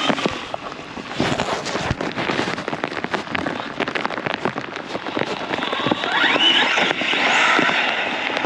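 Arrma Big Rock 6S RC monster truck driving through floodwater: crackling splashes and spray, with the electric motor's whine rising as it speeds up about six seconds in.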